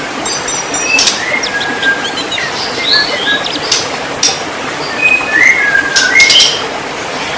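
White-rumped shama singing: quick phrases of short whistled notes and slides, mixed with sharp clicking notes, over a steady hiss.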